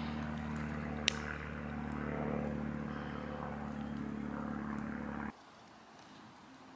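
Piston-engined propeller aircraft droning overhead, a steady low engine hum that swells slightly and then cuts off suddenly about five seconds in. A single sharp click about a second in.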